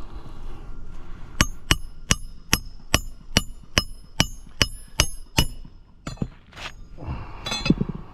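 A hammer strikes metal eleven times in a steady rhythm, about two and a half blows a second, each blow ringing briefly. A short rattle follows near the end.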